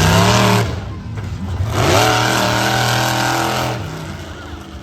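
Monster truck engine revving: a held rev that drops off just under a second in, then a second rev rising at about two seconds and held for nearly two seconds before it falls away.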